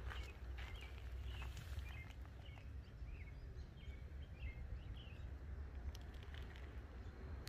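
Outdoor ambience: a steady low rumble, with small birds chirping in short repeated calls during the first five seconds or so, and a few faint clicks.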